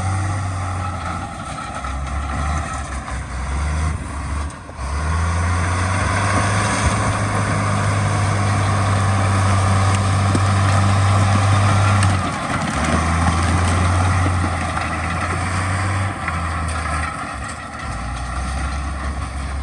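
Heavy diesel earthmoving machinery running: a deep, steady engine drone that changes pitch and level every few seconds, over a rumbling noise.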